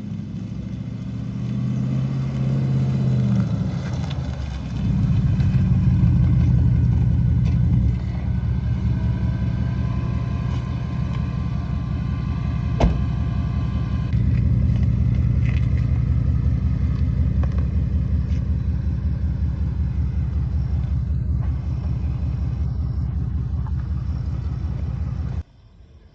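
Ford Mustang's engine running with a deep, fast, even pulse, growing louder about five seconds in and shifting level a couple of times. There is a single sharp click midway, and the engine sound cuts off abruptly just before the end.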